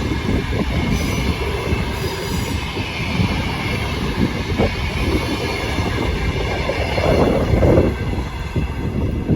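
Train running along the track with a steady rumble, and faint high squealing from its wheels.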